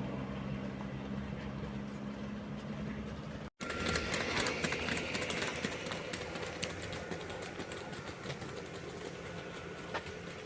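Royal Enfield Classic 350 motorcycle's single-cylinder engine running steadily. After a brief break about three and a half seconds in, it continues with a rougher, noisier run full of small ticks.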